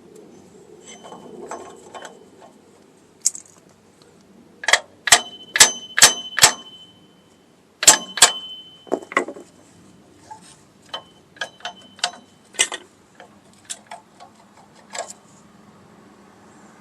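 Hand tools striking and prying steel brake parts to pop out a retaining C-clip on drum brake hardware: sharp ringing metal clanks, a quick run of five hard hits about five seconds in, two more a few seconds later, then lighter taps and clinks.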